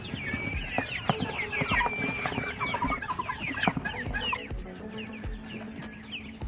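A flock of young chickens clucking and calling, with many short calls overlapping and a few sharp clicks among them. The calls thin out in the last couple of seconds.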